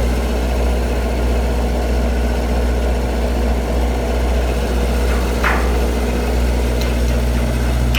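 Heavy engine idling steadily, a constant low drone, with a brief higher sound about five and a half seconds in.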